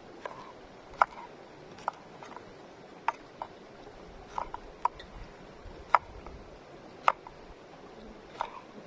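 A series of sharp taps or knocks, about ten at uneven intervals of roughly a second.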